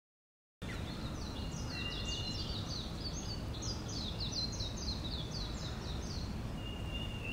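Birds singing in trees: a rapid run of short, high, descending chirps, with a brief held whistle near the start and another near the end, over a steady low rushing background.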